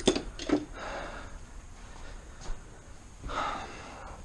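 A sharp metal click as a socket is fitted and tried on a bolt, with light tool handling and breathy exhales about half a second in and again about three seconds in.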